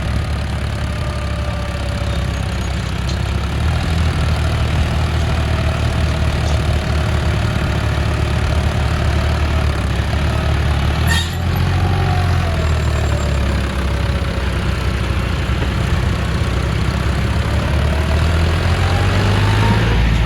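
John Deere 5042 D tractor's three-cylinder diesel engine running steadily under load while driving, its engine note dipping after about 12 seconds and rising again near the end. A single sharp knock about 11 seconds in.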